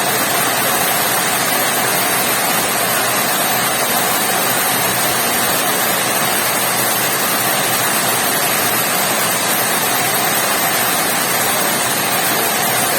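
Heavy rain falling steadily, a loud even hiss that does not let up.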